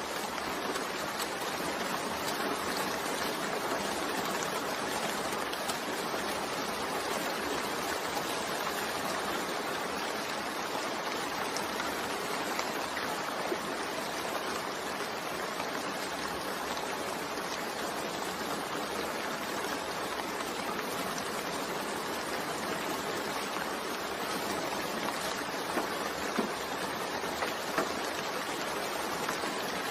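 Steady rain falling: an even hiss, with a few louder drop hits near the end.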